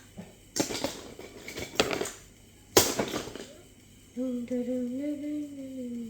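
Loose plastic Lego bricks clattering and clicking as they are sorted through by hand, with one sharp click about three seconds in. Over the last couple of seconds a person hums a held, slightly wavering note.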